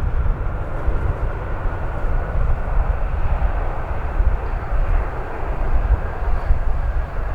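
Airliner engine noise, a steady rumble mixed with heavy, gusting wind buffeting on the microphone.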